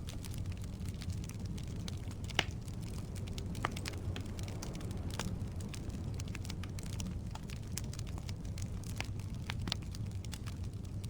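Firewood burning in a fireplace: a steady low rumble of flames with scattered crackles and pops, the sharpest about two and a half seconds in.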